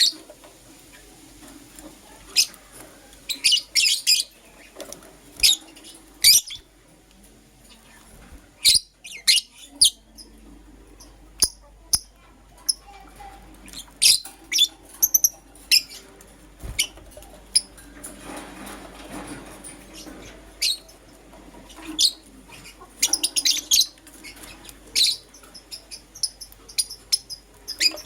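Lovebirds chirping: short, sharp, high-pitched chirps at irregular intervals, some in quick runs of three or four, over a faint steady low hum.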